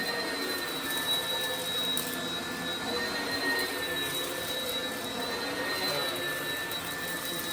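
Oreck XL upright vacuum running with a steady high whine, drawn across carpet and picking up crunchy kitty litter from the fibres, with a few faint crackling ticks.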